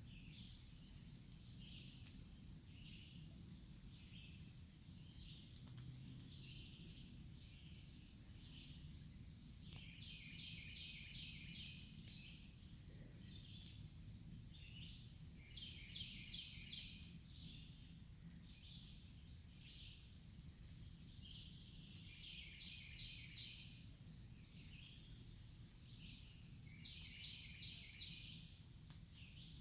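Forest ambience: a steady high insect drone with repeated short chirps, and about four bursts of rapid chirping spaced five to six seconds apart, over a faint low rumble.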